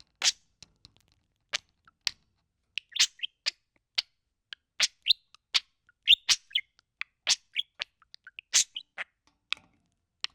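Budgerigar chirping and clicking into the microphone: many short, sharp, high-pitched chirps at uneven intervals, a few each second.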